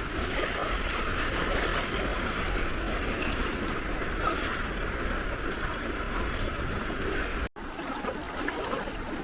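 Gentle sea waves washing on the shore in a steady rush of water. It breaks off for an instant about seven and a half seconds in and resumes with less low rumble.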